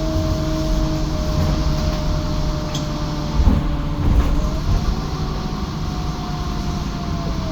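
Menarinibus Citymood 12 CNG city bus heard from on board while driving: a steady drivetrain whine over the low engine and road noise, rising about four and a half seconds in and easing off again near the end, with two short knocks about three and a half and four seconds in.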